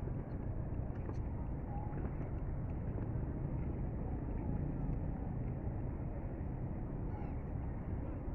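Steady wind rumbling on the microphone, with water noise around a small inflatable boat.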